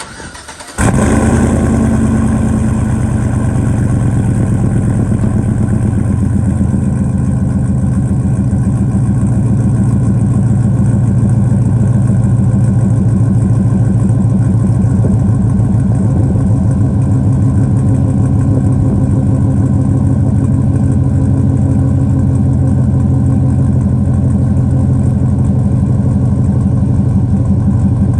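Chevrolet Silverado's 5.3-litre V8 cold-starting through long-tube headers and a full 3-inch exhaust with a Magnaflow Magnapack muffler: it catches suddenly about a second in, runs a little faster for the first couple of seconds, then settles into a steady idle.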